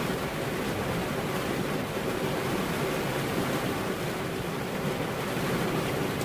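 Steady rain falling, an even hiss without distinct drops standing out and with no thunder.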